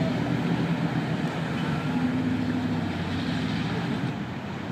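Lifted pickup truck's engine running under load as it drives through a mud bog pit, a steady drone that gradually fades.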